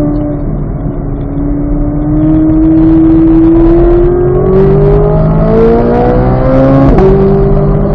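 2023 Chevrolet Corvette Z06's flat-plane-crank 5.5-litre V8 under hard acceleration, its pitch climbing steadily for about six seconds. About seven seconds in the pitch drops abruptly with an upshift, then starts climbing again in the next gear.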